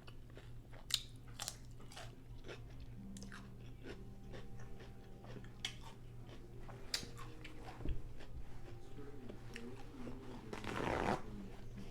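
Close-up chewing and crunching of a chorizo taco in a crisp fried taco-boat shell: many small crunches and clicks, with a louder crunch about ten and a half seconds in.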